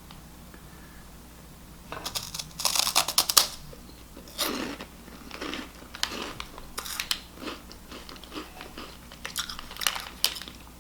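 Close-up biting and chewing of a crunchy seasoned snack: about two seconds in, a burst of loud crunches as it is bitten, then a steady run of softer chewing crunches.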